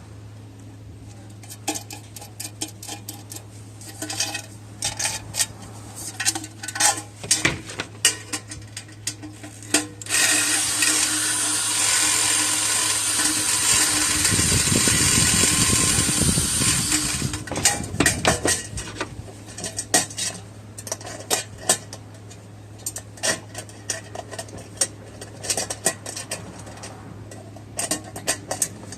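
Metal pieces clinking and rattling in irregular clusters of sharp clicks, as small metal stove parts are handled. For about seven seconds in the middle a steady loud hiss runs under the clinks.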